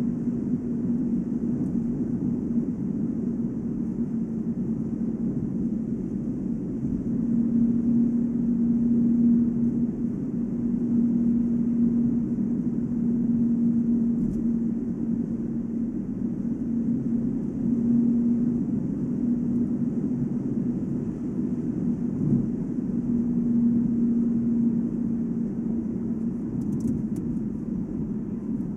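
Volvo S80 at highway speed, about 145 km/h: a steady low hum over muffled road noise, swelling and fading every few seconds. The hum appears only with brand-new Goodyear Eagle F1 summer tyres; the owner doubts a wheel bearing because it doesn't change with accelerating, braking or cornering, and suspects the tyre tread or rim design.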